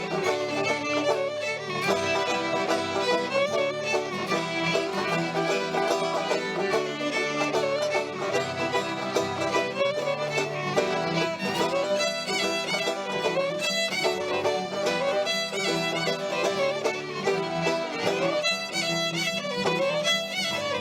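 Instrumental folk fiddle tune: a fiddle playing a quick run of notes over plucked-string backing.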